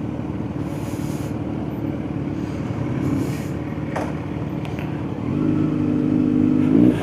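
Kawasaki Z900's inline-four engine running while riding. About five seconds in it pulls harder and louder at a steady pitch, rises briefly, then drops away at the end.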